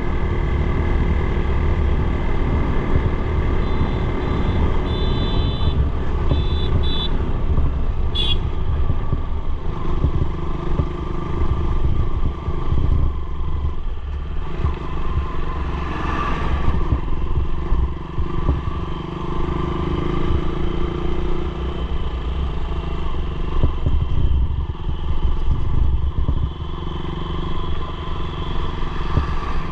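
Motorcycle engine running steadily on the move, with heavy low rumble from wind on the microphone.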